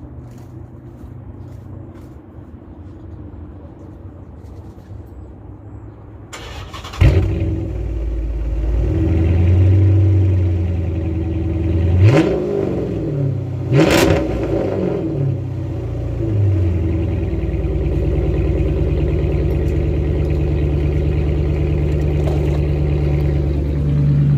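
2013 Dodge Charger police-pursuit car's 5.7 Hemi V8, with mufflers and resonators removed and the factory catalytic converters kept, starting about seven seconds in and settling from a high idle. It is blipped twice in quick succession and then idles with a deep, loud exhaust note.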